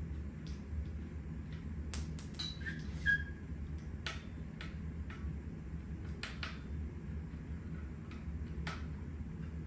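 Light metallic clicks and taps from hand tools working on bicycle parts, scattered irregularly, with two brief high pings about 2.5 and 3 seconds in, over a steady low hum.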